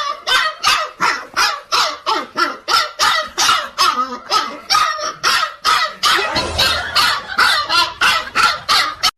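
A dog barking over and over, about three short barks a second, the run breaking off abruptly near the end.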